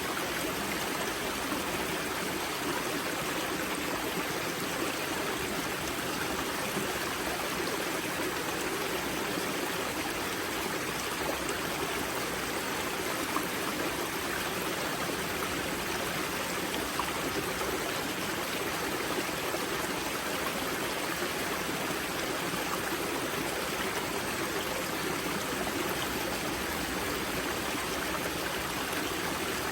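Water of a river spring rushing and gurgling over rocks, a steady, even flow.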